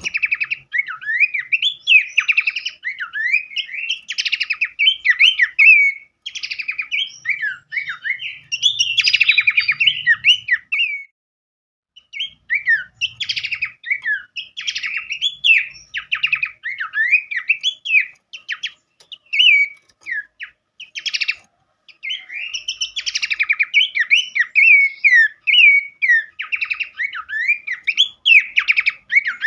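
Songbird song from a masteran tutoring recording: a dense, continuous run of rapid, sharp chirps, trills and quick rising and falling whistles, with a brief pause about eleven seconds in.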